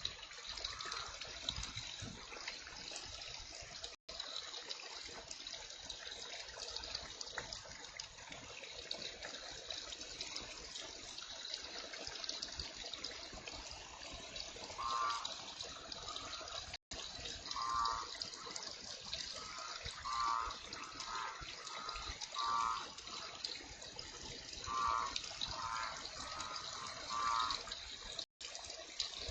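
Heavy rain falling steadily. From about halfway through, short calls repeat over it, each about half a second long, and the sound cuts out for an instant three times.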